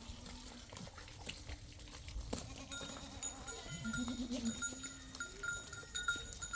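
A flock bleating, one low call at the start and a wavering one about four seconds in, with a small livestock bell ringing on and off from about three seconds in.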